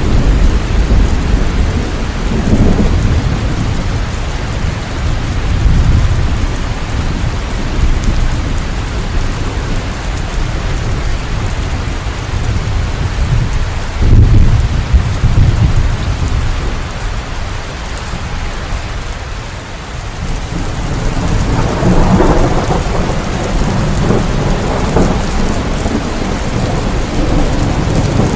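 Steady rain falling, with deep rolling rumbles of thunder: one near the start, a louder one about halfway through, and another building near the end.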